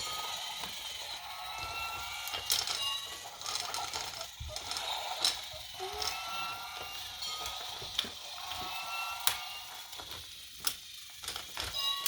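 Battery-powered Thomas toy trains running on wooden track: a steady gear-motor whir with scattered clicks and short squeaks as the wheels cross the track joints.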